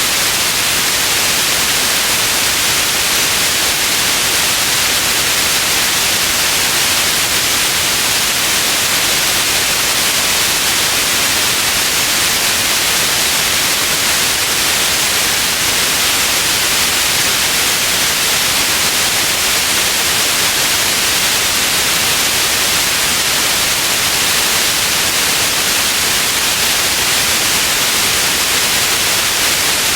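Steady white noise: an even, unchanging hiss across all pitches, strongest in the upper range.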